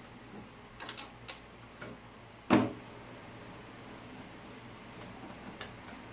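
A few light clicks and taps, then one sharp knock about two and a half seconds in, with faint clicks near the end, from hand work on a plumbing installation.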